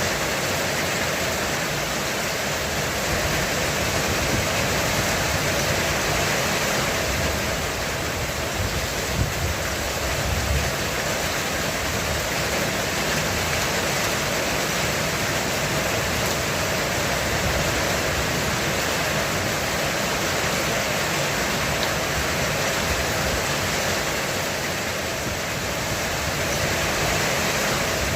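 Heavy rain drumming steadily on a roof, a dense even hiss, with a brief low rumble of thunder about ten seconds in.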